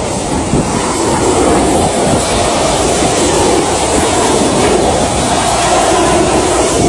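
Steady rushing cabin noise of a jet airliner in flight: engine and airflow noise heard from inside the cabin.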